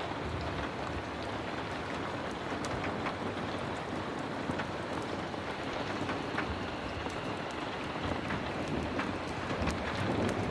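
Heavy rain falling steadily: a dense, even hiss with scattered sharp ticks through it.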